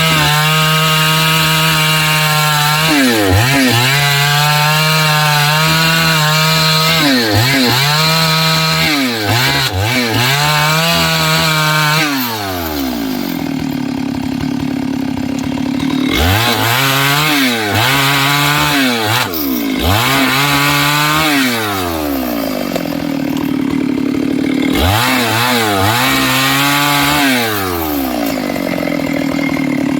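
Stihl MS 382 two-stroke chainsaw with a 24-inch bar cutting wood under load, its engine note steady. The throttle is let off and opened again many times, so the pitch drops and climbs back each time, more often in the second half.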